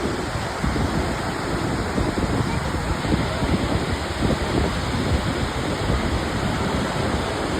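Steady rushing noise with wind buffeting the microphone in uneven low rumbles.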